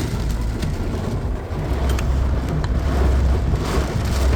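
A car's low road-and-engine rumble heard from inside the cabin, with an even hiss of heavy rain on the car.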